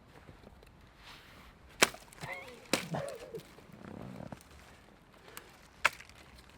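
Firewood being chopped: three sharp strikes, two close together about two seconds in and one near the end.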